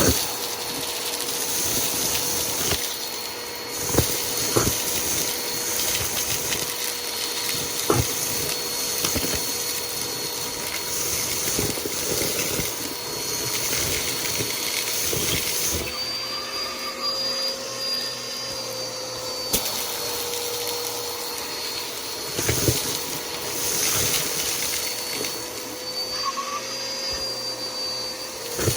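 Bissell PowerForce Helix upright vacuum running with a steady motor whine. Its pitch rises slightly for a few seconds around the middle and again near the end. Occasional sharp clicks and knocks sound as it is pushed.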